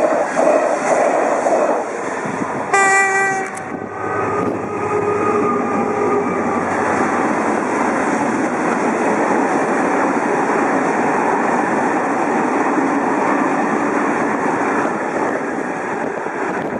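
A passing TGV high-speed train at first, then a train horn sounds briefly about three seconds in, with fainter horn tones after it. The rest is the steady running of a long freight train of tank wagons hauled by a Europorte Euro 4000 diesel locomotive rolling past.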